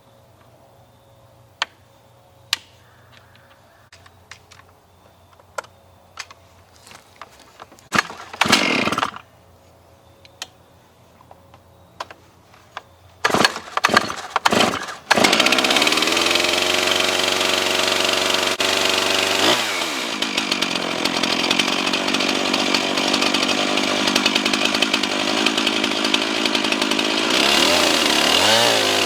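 Stihl MS 391 chainsaw with a 25-inch bar on a chainsaw mill. After some knocks and clicks of handling and a few sharp pulls, it starts about halfway through. It then runs loud and steady at high speed, milling green cedar.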